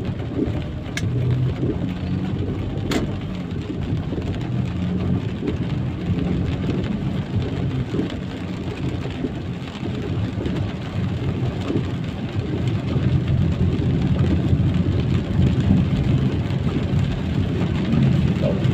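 Rain and traffic on a wet road: a steady low rumble of engines and tyres under an even rain hiss, with two sharp clicks about one and three seconds in.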